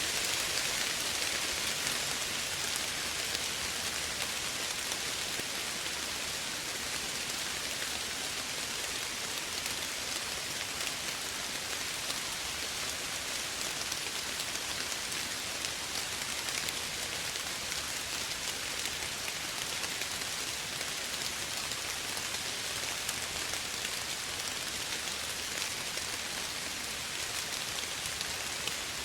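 Steady gentle rain falling, an even hiss of many small drops with fine pattering ticks.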